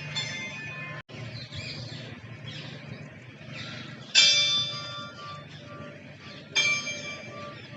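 Two bell-like chimes, one about four seconds in and another a couple of seconds later, each struck suddenly and ringing out as it fades, over a steady low hum and faint bird chirps.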